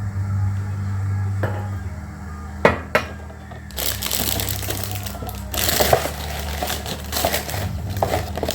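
Cornflakes being poured into a container: a few seconds of dense, rustling crackle of flakes with crinkling of the packet, preceded by two sharp clicks.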